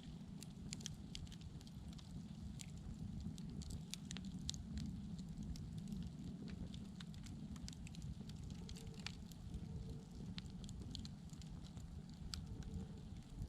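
Fire crackling, with irregular small pops and snaps scattered over a low steady rumble.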